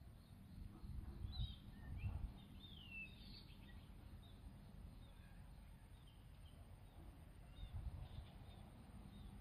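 Faint birds calling: scattered high chirps, busiest in the first few seconds, with one falling whistle about three seconds in, over a few short low rumbles.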